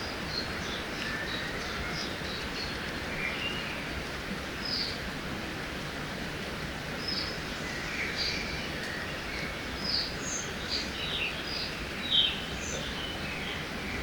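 Forest ambience by a river: a steady rush of flowing water under many short bird chirps and calls scattered throughout, one a little louder near the end.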